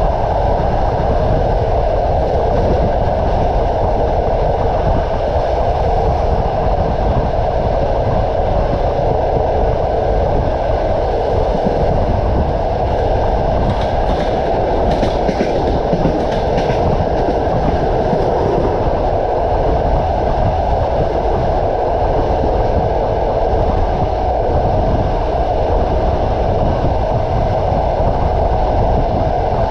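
Passenger train running along the track: a steady rumble and clatter of its wheels on the rails, with a few faint high clicks about halfway through.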